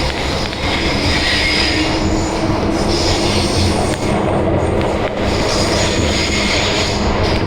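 MTR Island Line M-train running through the tunnel: a steady rumble of wheels on rail, with high wheel squeal rising and fading several times as it takes a curve.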